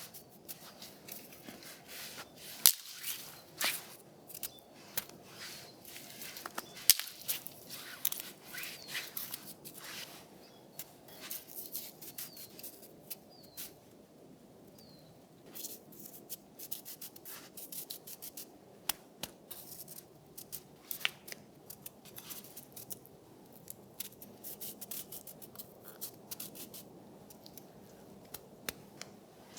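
A run of irregular sharp clicks and small cracks over a faint steady hiss, with two louder snaps, about three seconds in and about seven seconds in.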